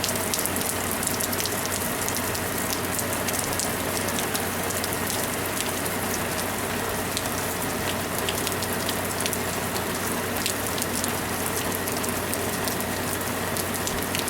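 Heavy monsoon rain pouring steadily, with many sharp ticks of drops striking surfaces close by.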